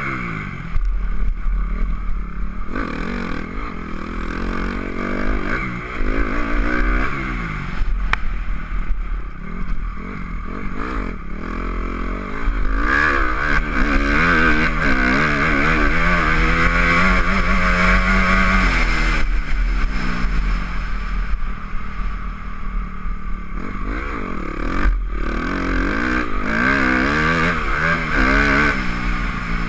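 Honda CRF250R single-cylinder four-stroke dirt bike engine revving up and down over and over as it is ridden, with a long stretch at high revs about halfway through. A steady low rumble runs underneath.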